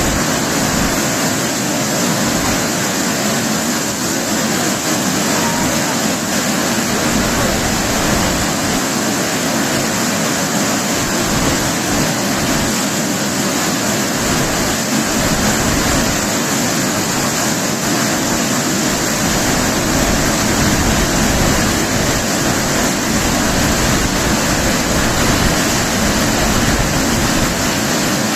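Waterfall roaring steadily: a continuous heavy rush of falling water.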